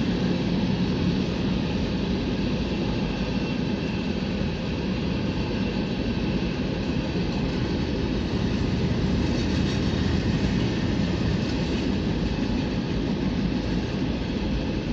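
Norfolk Southern mixed manifest freight train rolling past, a steady loud noise of its cars' wheels running on the rails.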